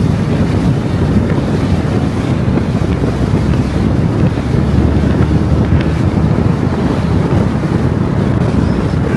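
Steady low rumble of a car driving at road speed: tyre, engine and wind noise running on without a break.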